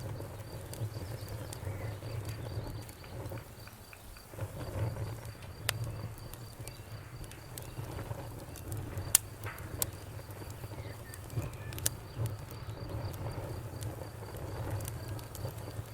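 Crackling wood fire: a steady low rumble of flames with irregular small crackles and sharper pops, the loudest pop about nine seconds in and another near twelve seconds.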